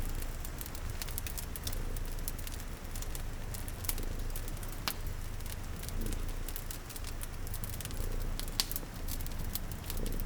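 Wood fire crackling with frequent sharp pops, over steady rain patter and a low, continuous cat purr.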